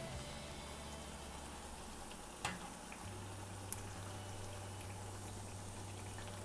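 Potato smileys deep-frying in hot oil in a kadai: a steady sizzling and bubbling, with two short clicks partway through.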